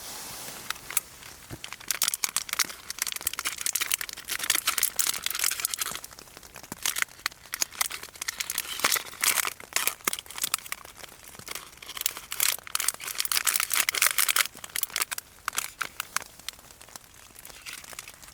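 Crinkling, rustling handling noise in irregular bursts, full of sharp crackles, like a thin crinkly material being crumpled or handled.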